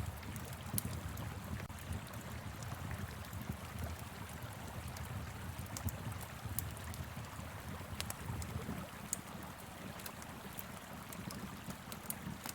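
Wood fire crackling, with scattered sharp pops, over the steady rush of a flowing river and a low wind rumble.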